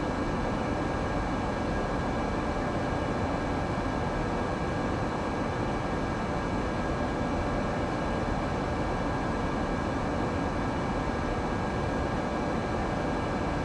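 Steady cabin noise of an Airbus A318 climbing after takeoff: its jet engines and the airflow heard from inside the cabin, an even rush with a few faint steady whining tones over it.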